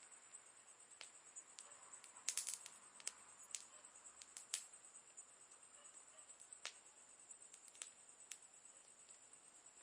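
Campfire wood crackling: sparse sharp pops, with a quick cluster of snaps about two seconds in, over a faint steady high-pitched hiss.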